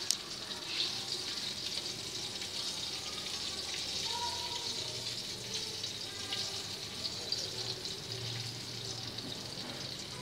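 Battered chicken pieces frying in a pan of oil, a steady sizzling hiss throughout, with one sharp click right at the start.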